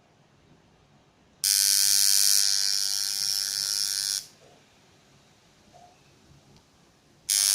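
A freshly assembled tattoo machine buzzing in two steady runs. The first lasts about three seconds, and it is switched on again near the end.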